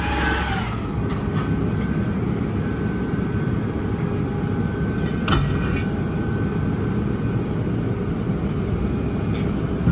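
Garbage truck engine running steadily, with a faint high whine and a sharp metallic clank about five seconds in.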